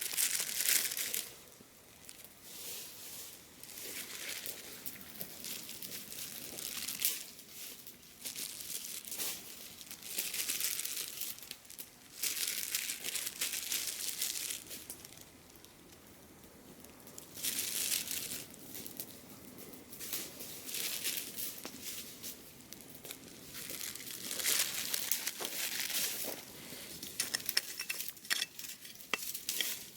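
Repeated bursts of rustling and crunching, a second or two each, as dry soil is worked while planting garlic cloves, with quick small clicks and scrapes near the end.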